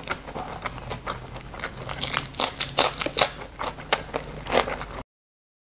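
Close-miked eating: a person chewing a mouthful of food, with wet smacking and sharp clicking of the lips and mouth, growing denser and louder about two seconds in. The sound cuts off abruptly near the end.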